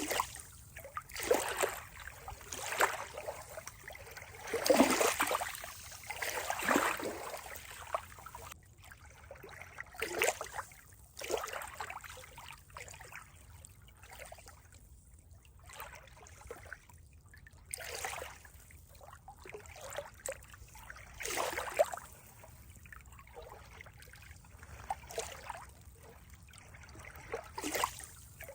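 Water trickling and splashing in irregular surges, one swell every second or two, with quieter moments between them.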